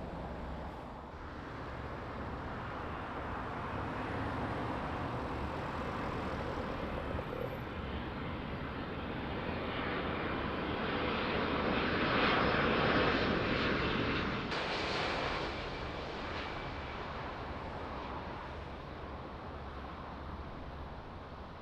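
A Boeing 787-10 Dreamliner's turbofan jet engines on approach and landing. Their steady rushing noise grows louder to a peak past the middle as the airliner passes, then fades away.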